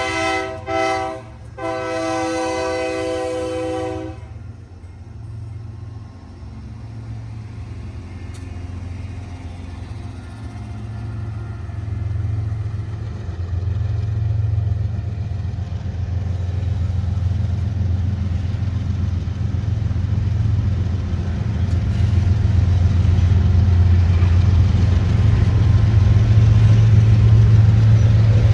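Diesel freight locomotive's multi-chime air horn sounding a chord in broken blasts that stop about four seconds in, then the locomotive's deep engine rumble growing steadily louder as the train approaches.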